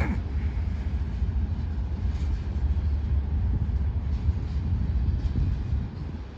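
Freight train rolling past: a steady low rumble of wheels on rail, easing slightly near the end.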